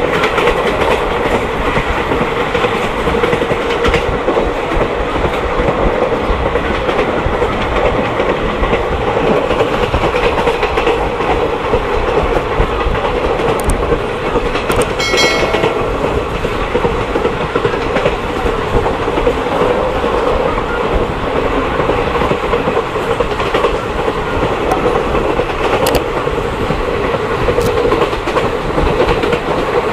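Mahamana Express passenger train running: steady noise of wheels on the track, with a short pitched tone about halfway through.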